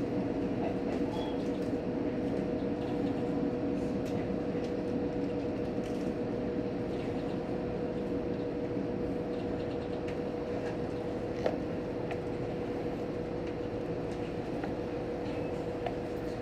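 Cabin sound inside a JR Hokkaido H100 diesel-electric railcar: a steady rumble with a constant hum, and one faint click about eleven seconds in.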